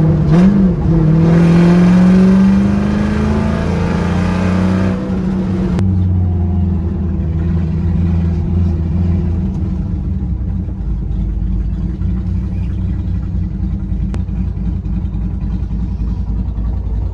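Ford Mustang's engine pulling hard under acceleration, its pitch climbing for the first five seconds or so, then easing off into a steady drone as the car cruises.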